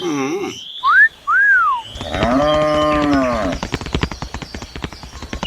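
Two short whistles that rise and fall, then a drawn-out moo-like animal call lasting about a second and a half, followed by a fast rattle of clicks.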